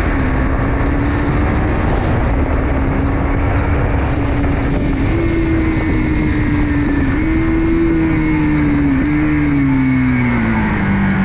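A KTM Duke 390's single-cylinder engine running at a steady cruise, with wind and road noise. The engine note falls over the last two seconds or so as the bike eases off.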